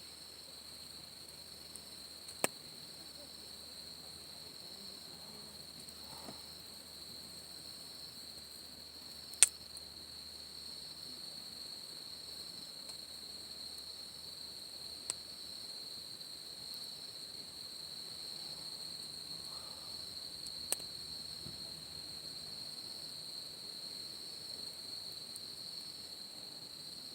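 Insects chirring steadily in a high, even drone, with four sharp single pops from burning campfire wood, the loudest about a third of the way in.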